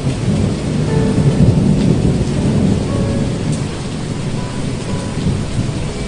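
Steady rain with a low rolling rumble of thunder that swells over the first few seconds and then slowly fades.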